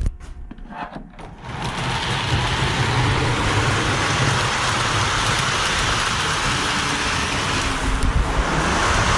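Model steam locomotive set running on the layout: after a few clicks, a steady hissing rush with a low hum starts about a second and a half in, easing briefly near the end.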